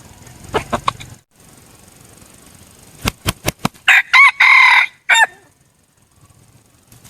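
Red junglefowl rooster, a tame decoy bird, crowing once: a short clipped crow of a few quick notes and a longer held note, about four seconds in. Four sharp claps come just before it.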